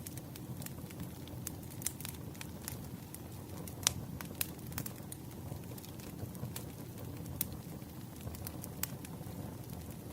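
Campfire burning, with a steady low rumble and irregular sharp crackles and pops, one louder pop about four seconds in.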